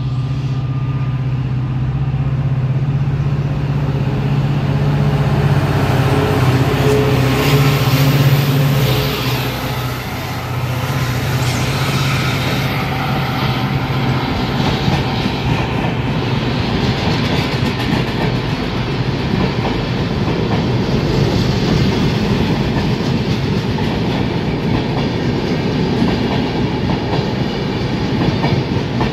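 Indian Railways WDP4D diesel locomotive, with its EMD 16-cylinder two-stroke engine, pulling hard as it accelerates its train. A steady engine hum leads for about the first ten seconds, then gives way to the rolling rumble and clickety-clack of wheels on rail.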